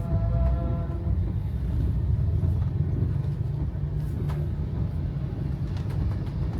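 Steady low rumble of a car driving, heard from inside the cabin: engine and tyre noise on a wet road in the rain. A few faint clicks are heard about four and six seconds in.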